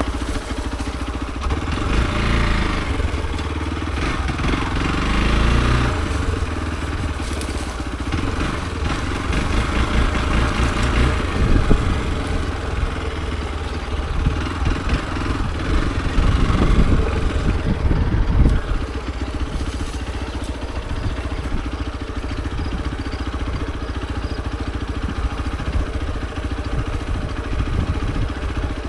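Hero XPulse 200 4V's single-cylinder four-stroke engine running as the motorcycle is ridden. The revs rise and fall several times with the throttle, loudest about 12 and 17 seconds in.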